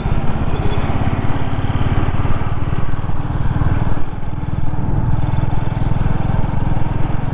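Royal Enfield Classic 350's single-cylinder engine running steadily on the move, a fast low exhaust thump, with wind and road noise over it.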